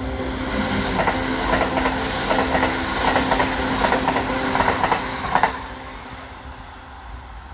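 Kintetsu electric train passing close by, its wheels clattering over the rail joints in quick clicks. The clatter stops about five and a half seconds in and the train sound fades away.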